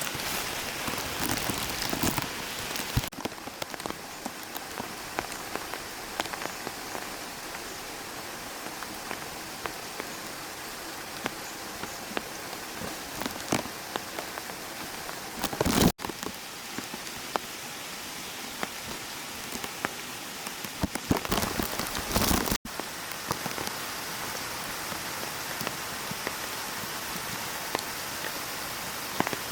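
Rain falling steadily, with many individual drops ticking on a surface. The sound jumps abruptly three times, and gets louder for a moment about halfway through and again a few seconds later.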